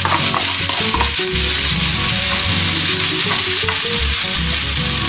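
Leftover rice frying in a hot fry pan, sizzling steadily as it is stirred.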